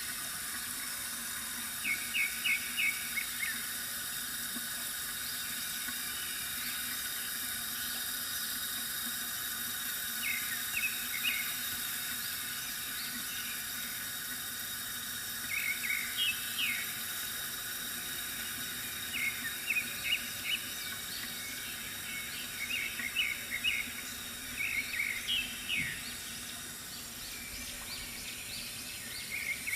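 Water trickling steadily from a bamboo fountain, with a small bird chirping in quick runs of short notes every few seconds.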